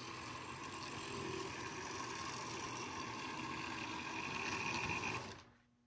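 HO scale model train running on its track, a steady whir of the locomotive motor and rolling wheels. The sound cuts off suddenly near the end, when the power overloads and shuts down.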